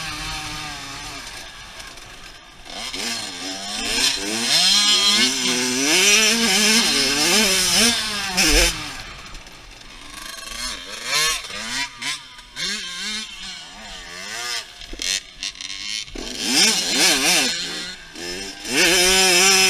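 Dirt bike engines revving hard and shifting up through the gears, the pitch climbing and dropping again and again. They are loudest from about three to nine seconds in, ease off, then surge again near the end.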